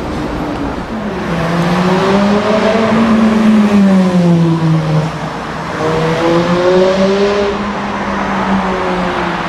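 Sports car engine accelerating hard with road noise. Its pitch climbs and falls twice, as the revs rise and drop through the gears.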